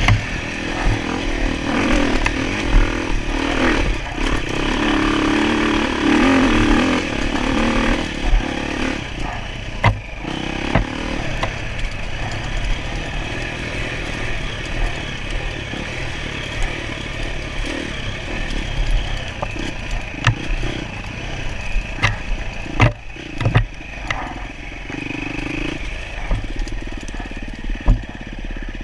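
Off-road motorcycle engine running and revving unevenly, with occasional sharp knocks and clatter.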